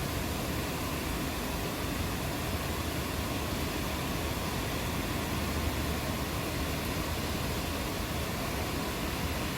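Steady, even rain hiss with a low rumble underneath.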